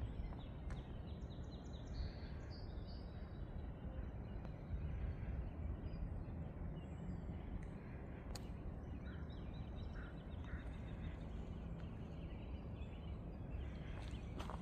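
Forest ambience: a steady low background rush with faint, high bird chirps and short trills, a run of them a second or two in and a few more around ten seconds in.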